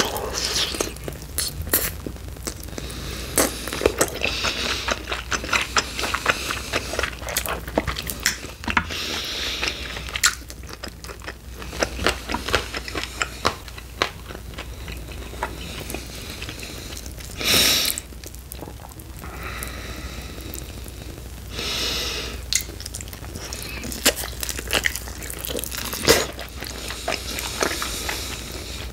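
Close-miked biting and chewing of sauced chicken wings: crunchy bites and wet mouth sounds in an irregular stream of small clicks, with a couple of louder rushes of noise partway through.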